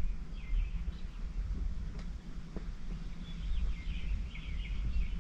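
Small birds chirping outside, a short call about half a second in and a run of chirps from about three seconds on, over a steady low rumble.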